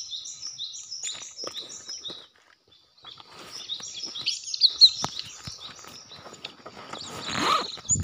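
Cinereous tits (gelatik batu) calling: fast series of high, repeated chirps, a short pause, then more chirping. A sharp knock comes about five seconds in, and a loud rustle of vegetation near the end.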